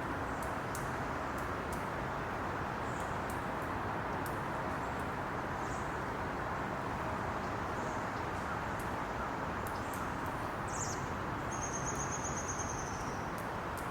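Steady background noise with a few faint high chips, then near the end a short, high falling bird call followed by a high, rapid trill lasting about a second and a half.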